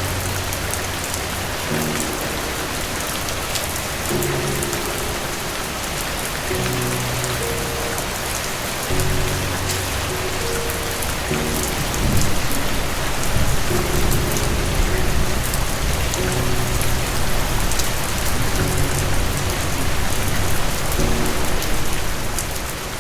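Steady rain falling, a dense even hiss flecked with drop ticks, over soft music of sustained low chords. About halfway through, a low rumble of thunder swells up and stays under the rain.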